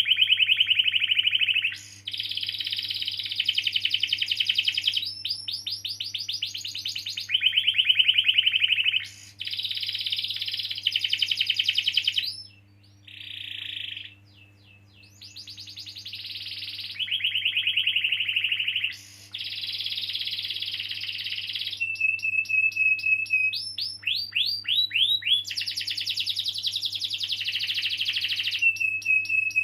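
Domestic canary singing a long song of fast rolling trills, phrase after phrase of rapidly repeated notes, with a short lull about thirteen seconds in and a couple of steady whistled notes near the end.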